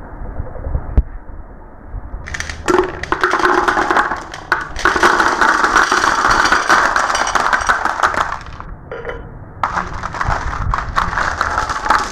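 Marbles rolling and clattering down a marble run, a dense rattle of small clicks and knocks. It thickens from about two seconds in, eases briefly near the ninth second, then picks up again.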